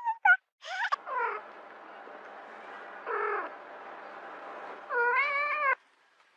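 A cat meowing several times: short calls early on, a falling meow about three seconds in, and a longer, wavering meow near the end that cuts off abruptly.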